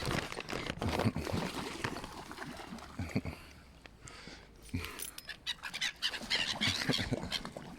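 Gulls calling, with a busier run of high calls in the second half.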